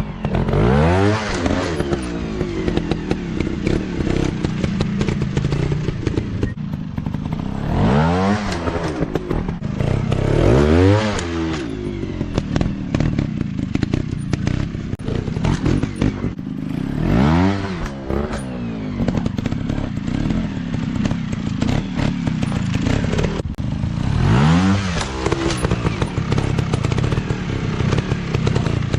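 Dirt bike engines running continuously, revving up and back down in about five sweeps, about a second in and again near 8, 11, 17 and 24 seconds.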